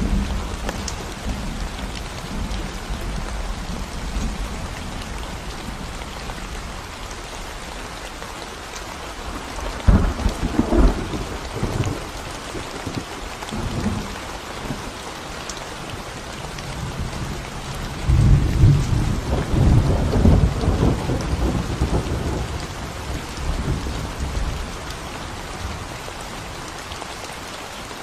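Steady rain falling on a concrete road and the plants around it. Thunder rumbles twice: a sharp, short peal about ten seconds in, then a longer rolling rumble that builds a little past halfway.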